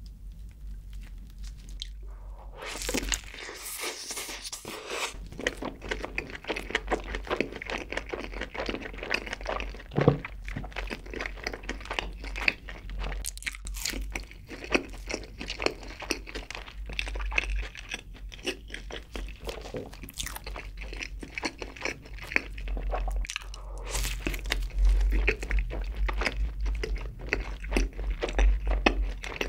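Close-miked eating sounds of a burger dipped in cheese sauce being bitten into and chewed. A dense run of small wet clicks and smacks starts about two and a half seconds in and goes on without a break.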